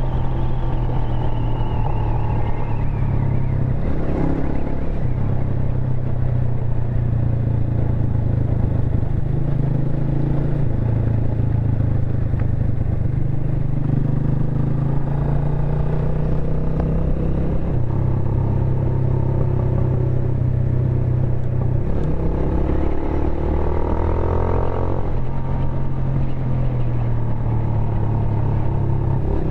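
Hi Speed Freedom SR 200 single-cylinder motorcycle engine running at road speed, heard from the rider's seat, its low engine note stepping up and down every few seconds. A rising whine cuts across it twice, about four seconds in and near the end.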